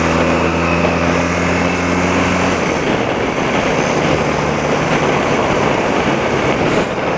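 Thirty-year-old BMW motorcycle engine running on the road while being worked to warm it up. A steady engine note holds for the first two and a half seconds, then gives way to a rougher rushing noise.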